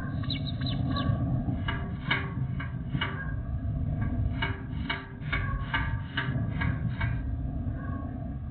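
A bird calling over and over in short, quick notes over a steady low rumble; the calls thin out near the end.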